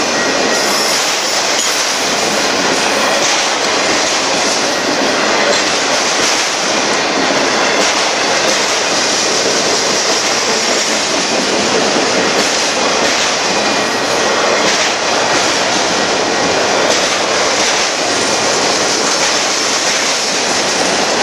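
Union Pacific freight train of autorack cars rolling past at close range: steady, loud wheel-on-rail noise as the cars go by.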